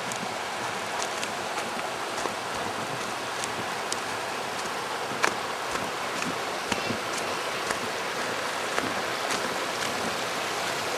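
A river running steadily with an even rush of water, and a few sharp clicks on top, the loudest about five seconds in.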